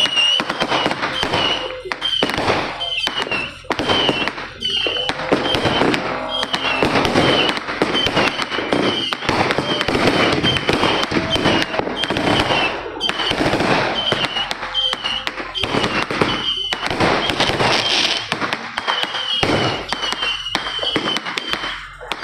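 Dense, continuous barrage of fireworks and firecrackers: many overlapping bangs and pops with no break, and short high-pitched chirps recurring throughout.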